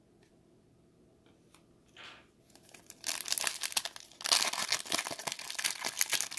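A trading-card pack's foil wrapper being torn open and crinkled by hand, starting about three seconds in.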